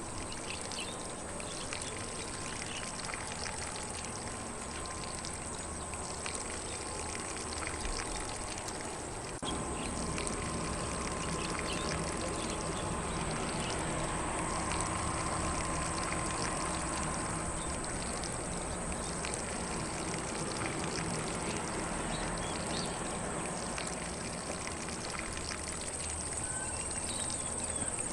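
Lawn sprinkler spraying water onto grass: a steady hiss of falling spray that grows a little louder about a third of the way in.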